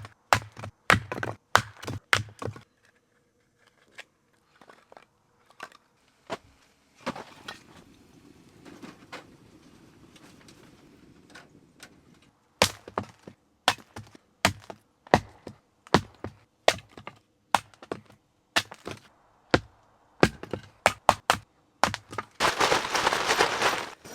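Firewood being split into kindling for a wood stove: repeated sharp cracks and knocks as the pieces break apart, coming in bursts. A softer rustle sits in the middle, and a loud rasping noise comes near the end.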